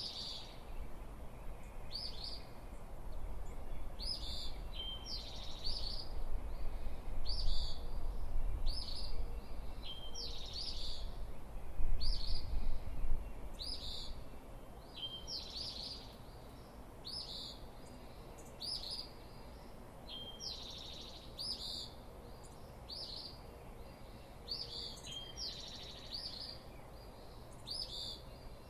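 A songbird repeats the same short high call about every second and a half, with a brief steady note before some of the calls. Through the first half, gusts of breeze rumble low on the microphone; these are the loudest sounds.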